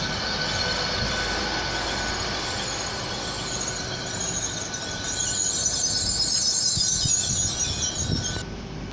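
Hitachi Class 800 IET bi-mode train rolling slowly past on the platform, with high-pitched wheel and brake squeal as it slows. The squeal is strongest in the second half and cuts off abruptly near the end.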